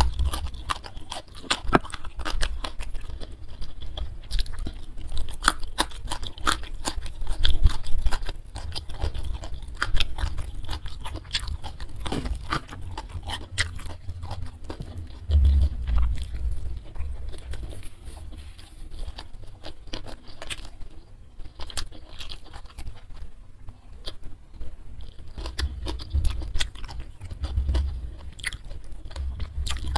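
Close-miked chewing of a person eating steamed mackerel tuna and rice by hand, with many short sharp clicks.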